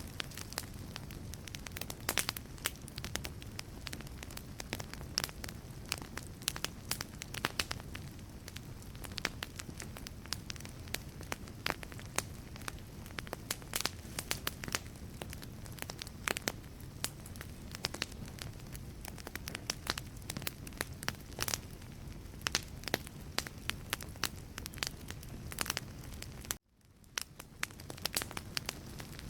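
Wood fire burning in a fireplace, crackling with frequent sharp pops and snaps over a low steady rumble of the flames. Near the end the sound drops out abruptly for a moment, then fades back in.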